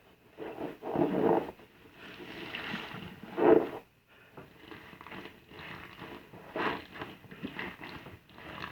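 Soapy car sponge being squeezed and worked into a lather, giving wet squelching in irregular bursts, loudest about a second in and again around three and a half seconds.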